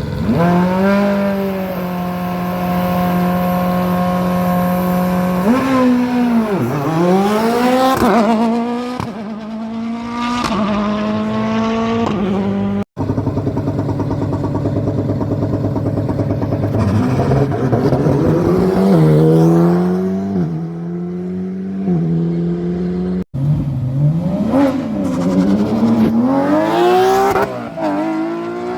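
Rally cars at full attack on a stage, engines held at high revs, dropping sharply on lifts and braking and climbing again through quick gear changes as they pass. Two abrupt cuts, about 13 and 23 seconds in, switch from one car to the next.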